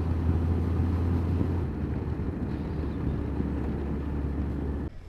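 Honda motorcycle riding along a road: a steady engine and road rumble that eases slightly after about a second and a half and cuts off abruptly near the end.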